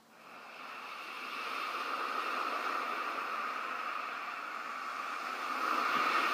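Recording of ocean waves on a shore. It fades in and settles into a steady hiss of surf that swells a little near the end.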